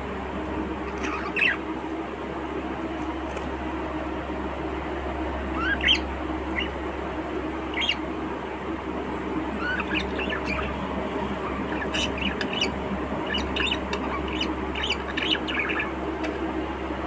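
Budgerigars chirping and squawking in short calls, sparse at first and more frequent in the second half, over a steady low hum.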